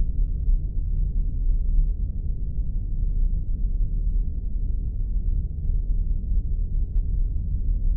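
Spaceship sound effect: a steady, deep rumble that holds even, with nothing in it above a low hum.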